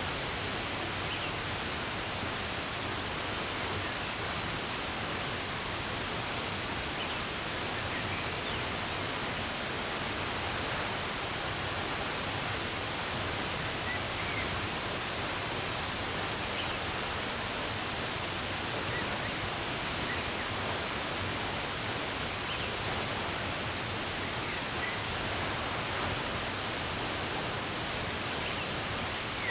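Running water rushing steadily, with a few faint bird chirps here and there.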